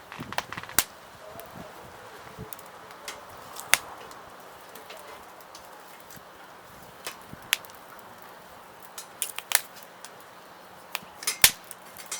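Wood fire crackling, with sharp irregular pops scattered throughout and a quick cluster of louder pops near the end.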